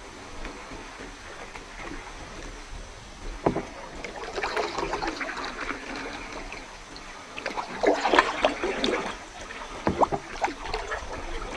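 Kayak paddle strokes in river water: irregular splashes and dripping as the blades dip and pull, with a single knock about three and a half seconds in.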